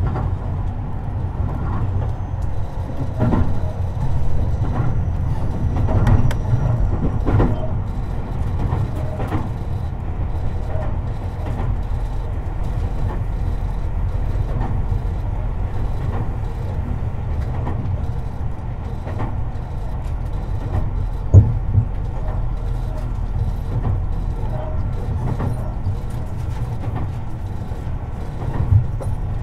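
Running sound of a Tobu 50090 series electric train, heard from beneath the floor of one car: a steady rumble of wheels on rail, with repeated clicks from rail joints. Two sharper loud clunks come about two-thirds of the way through and again near the end.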